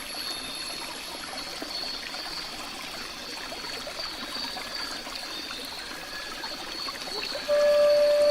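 Water trickling, like a small stream, with a steady thin high tone over it. A held musical note comes in near the end.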